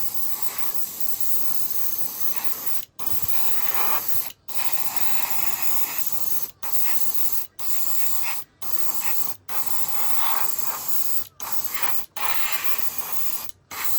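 Aerosol spray-paint can spraying red paint in a string of hissing bursts, each a second or two long, with brief stops between them.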